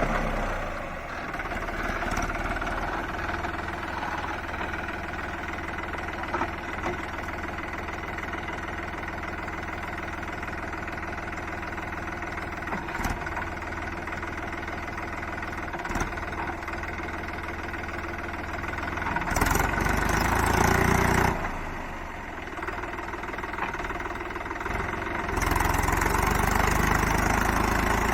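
Mahindra Yuvo 275 DI tractor's diesel engine running steadily at a low idle. It grows louder for a couple of seconds about two-thirds of the way in, and louder again near the end.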